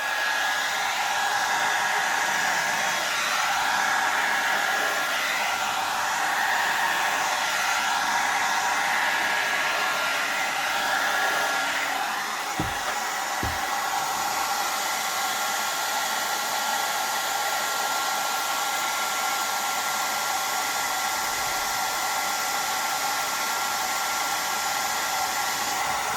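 A small hair dryer running steadily on one setting, a constant airy hiss with a motor whine, blowing across wet acrylic paint. There are two brief soft knocks about halfway through.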